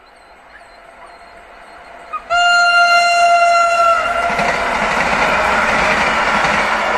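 EN57AL electric multiple unit passing at speed: its horn sounds once, a single steady tone starting suddenly about two seconds in and lasting under two seconds, over the rising noise of the approaching train, followed by the loud, even rumble and rattle of the carriages going by.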